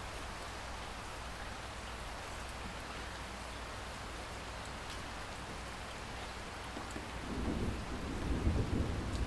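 Steady rainfall hissing evenly, with distant thunder rumbling in low about seven seconds in and growing louder toward the end.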